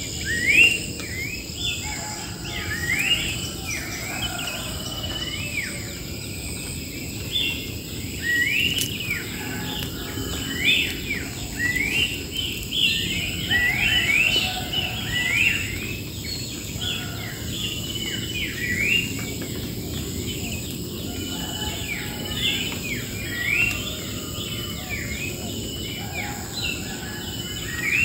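Wild birds chirping, many short rising calls repeated over and over, over a steady high-pitched insect drone.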